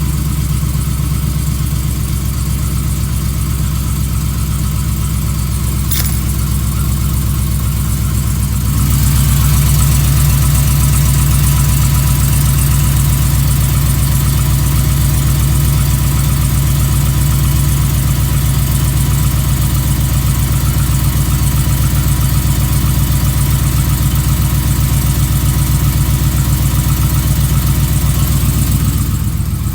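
2015 Ram pickup's 5.7-litre Hemi V8 with long-tube headers running steadily, with a knock that the owner suspects is Hemi tick or piston slap. It gets louder about nine seconds in and stays there.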